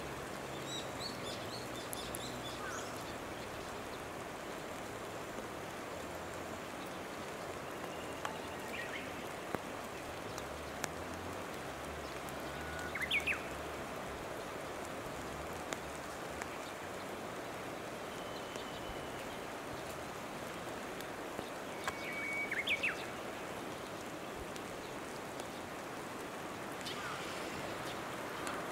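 Outdoor ambience: a steady rushing hiss throughout, with a bird giving short, sharp calls that sweep up in pitch several times, the loudest about halfway through and again three-quarters of the way in, and a brief high twittering near the start.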